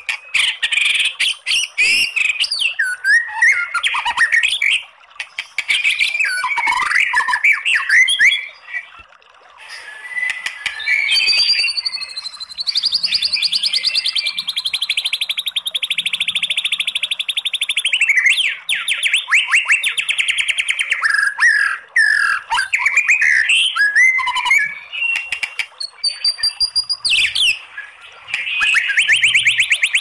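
White-rumped shama (murai batu) singing: varied whistled phrases and chattering notes, broken by long rapid-fire rattling trills, the long 'tembakan' phrases of its song. One trill runs about six seconds in the middle, and another starts near the end.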